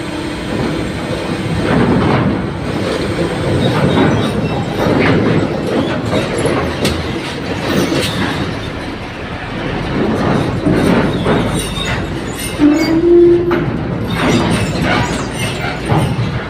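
Heavy vehicles rolling across a ferry's steel loading ramp, with repeated clanks and rattles over engine rumble. A short steady tone sounds about three-quarters of the way in.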